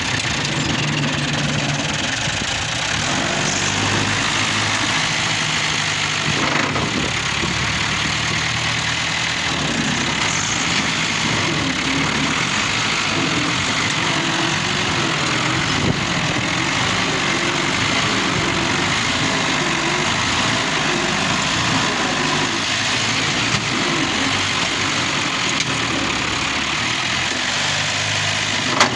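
New Holland 640 tractor engine running steadily, its note rising and falling a little.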